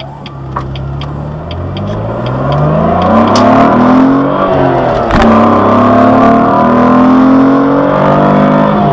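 2003 Jaguar X-Type's 2.5-litre V6 accelerating hard at full throttle, its pitch rising steadily through a gear. About five seconds in it drops sharply at a gear change, then climbs again in the next gear, with another shift near the end. A light regular ticking runs through the first few seconds.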